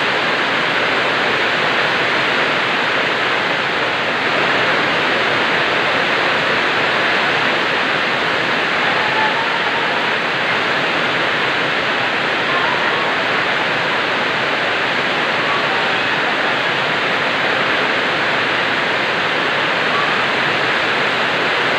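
Heavy rain pouring down in a steady, unbroken downpour, a dense even hiss that holds its level throughout.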